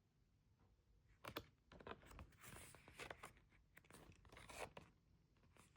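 Faint rustling and crinkling of paper and plastic as album contents are handled, a run of quick rustles and small clicks starting about a second in.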